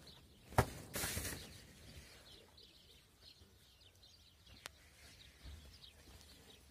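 A sharp knock about half a second in and a brief rustle right after, then faint bird chirps in the background.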